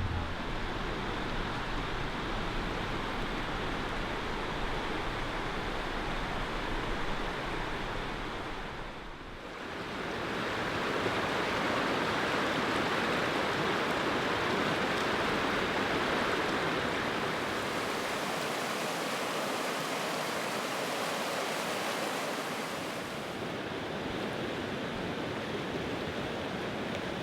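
Steady rushing of river water, dipping briefly about nine seconds in.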